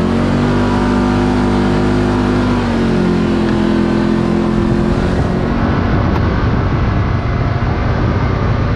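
Can-Am Maverick X3 side-by-side's engine running steadily as it drives along a road, its note shifting slightly in pitch about three seconds in. About five seconds in it gives way to a rougher, noisier rumble.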